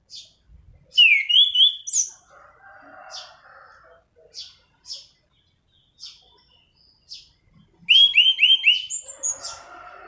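Anis cendana thrush singing vigorously. Two loud phrases of three or four quick down-slurred whistled notes come about a second in and again near the end, with short high chips between them.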